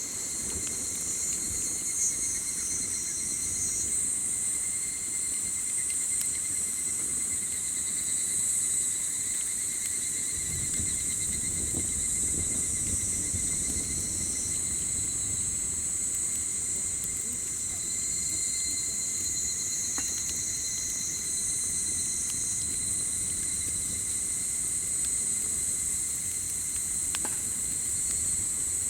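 Summer insects, crickets among them, calling steadily in several overlapping high trills over a low rumble. A couple of sharp pops from the crackling campfire come through, about two-thirds of the way in and near the end.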